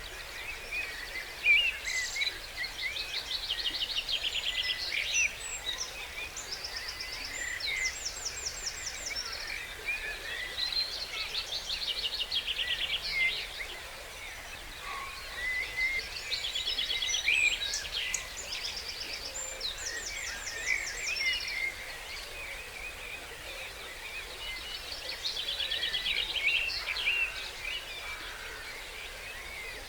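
Dawn chorus of several songbirds singing together, with loud, fast trilling phrases that come again every few seconds among shorter chirps and whistles, over a low steady hiss.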